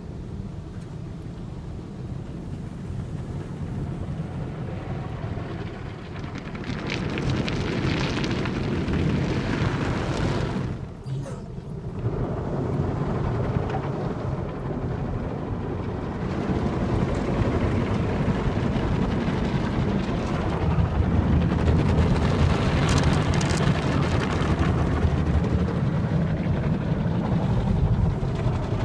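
Sonny's tunnel car wash equipment working over a car, heard from inside the cabin: a steady wash of spraying water and rumbling machinery against the body. A brief lull comes about eleven seconds in, and the noise grows louder through the second half.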